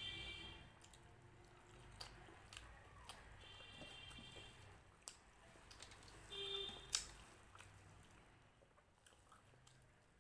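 Faint close-up eating sounds: chewing and crunching of puffed rice and fried snacks, with scattered sharp clicks, the sharpest about seven seconds in. Twice, around the middle, a short high-pitched animal call sounds in the background.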